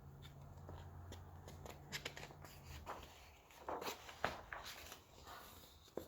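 Paper pages of a picture book being handled and turned: soft rustling with a few light taps, loudest about four seconds in.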